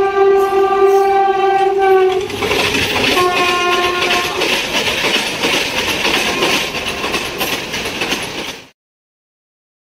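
Indian Railways express train passing at speed: a locomotive horn sounds one long chord-like blast, then a second shorter blast about three seconds in, over the loud rushing and rattling of the train going by. The sound cuts off abruptly near the end.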